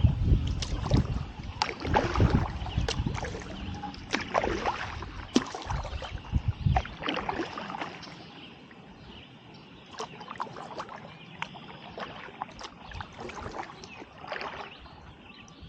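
Kayak paddling: the paddle blades dipping and splashing in the water and dripping, in many short sharp ticks over a low rumble. About halfway through it turns quieter, leaving scattered drips and small splashes.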